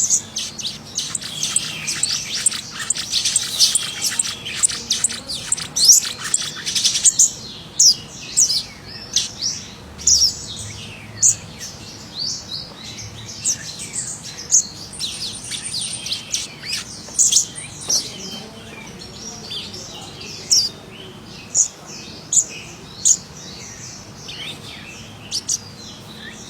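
Scarlet minivet (sepah raja) calling vigorously with short, sharp, high chirps. They come thick and fast for the first seven seconds or so, then as scattered single notes.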